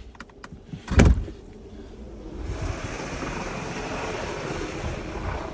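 A loud thump about a second in, then a steady rush of blizzard wind.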